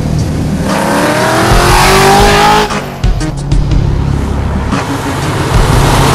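A 1967 Camaro's LS2 6.0-litre V8 accelerating hard, its revs climbing for about two seconds. There is a short dip about three seconds in, then it pulls again, with music underneath.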